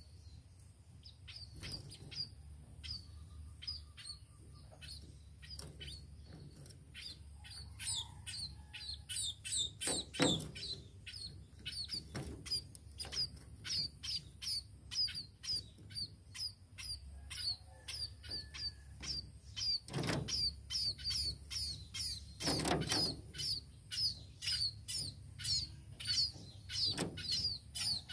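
Munia (burung pipit) chirping: a long run of short, high chirps, sparse at first and then several a second from about eight seconds in. A few soft thumps break in along the way.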